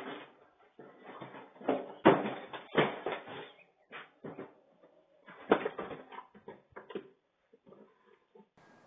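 A run of irregular knocks and thuds, muffled and thin through a security camera's microphone.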